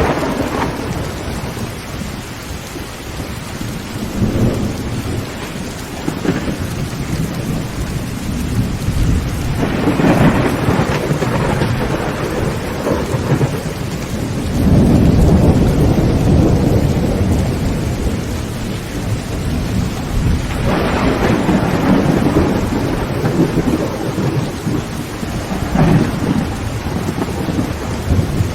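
Heavy rain drumming on a tin tent roof, with thunder rumbling several times; the loudest rumble swells about halfway through and lasts a few seconds.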